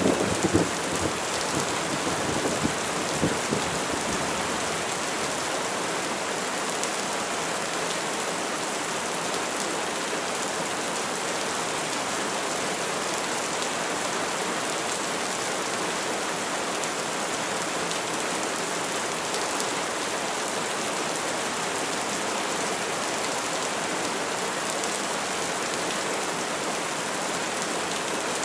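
Steady, heavy rain falling. A thunderclap's tail crackles and rumbles over the first few seconds, then dies away, leaving an even rain hiss.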